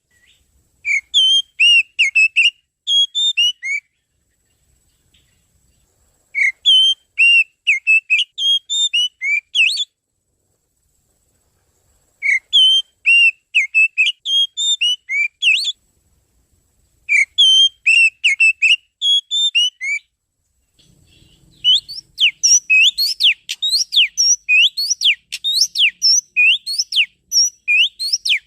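Oriental magpie-robin (kacer) song played as a lure recording. Four bursts of quick whistled phrases, each a few seconds long with short silent gaps between them, are followed near the end by a longer, faster run of sweeping notes that rise and fall.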